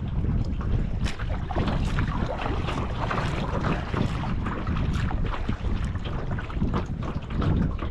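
Strong wind buffeting the microphone, a heavy low rumble, with irregular sharp splashes and crackles of choppy water throughout.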